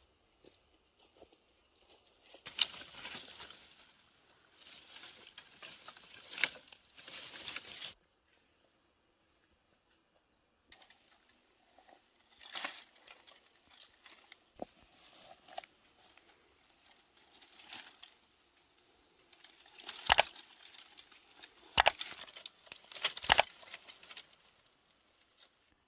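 Dry sticks and brush being handled: bursts of rustling and crinkling with several sharp snaps. There is a dead-quiet gap of a few seconds a third of the way in.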